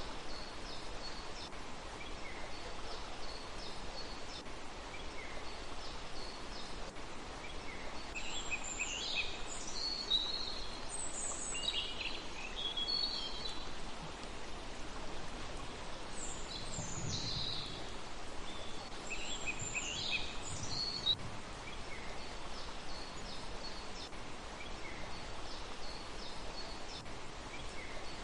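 Small birds calling outdoors over a steady background hiss. Short high chirps repeat throughout. Louder calls that fall steeply in pitch come in two bouts, one near the middle and one shortly after.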